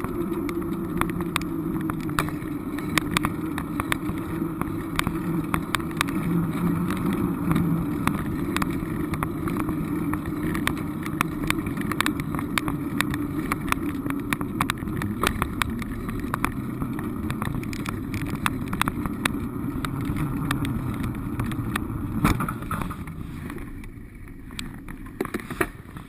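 A vehicle running steadily, with a low engine hum and many small clicks and knocks, getting quieter over the last few seconds.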